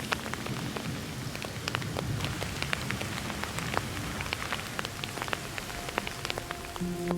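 Steady rain falling, with many distinct drops striking close by as sharp little clicks over an even hiss. A few low held tones come in near the end.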